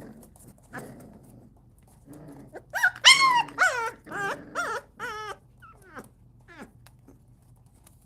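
Three-week-old puppies whimpering and yelping: a run of loud, high, wavering cries starts a little under three seconds in and lasts about two and a half seconds, followed by two fainter falling squeaks. Low grumbling comes before the cries.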